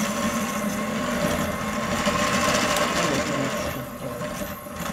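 Electric mixer running steadily, beating room-temperature butter and sugar; its note eases slightly near the end.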